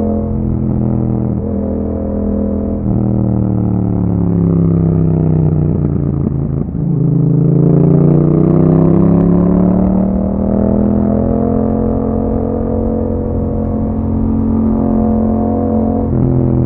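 2021 Yamaha MT-07's 689 cc parallel-twin running through an Akrapovic exhaust while riding: the exhaust note falls steadily as the bike slows for a few seconds, then climbs again as it accelerates, and settles into a steady cruise for the rest.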